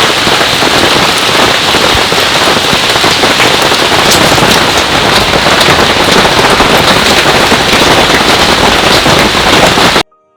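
Heavy downpour, a dense steady hiss of rain with many separate drops striking a surface. It cuts off suddenly near the end.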